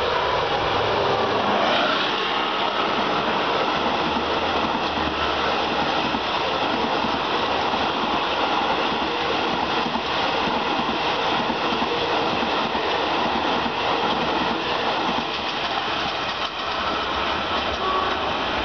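A train running on the rails: a steady, even rumble and rail noise with no horn or distinct clanks.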